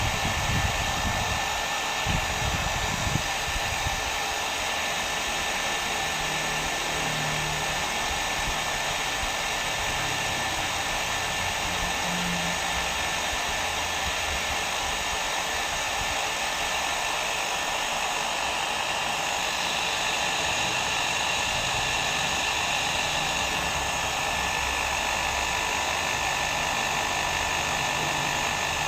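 Hair dryer running steadily: a constant rush of blown air with a faint steady whine from its motor. A few low thumps come in the first few seconds.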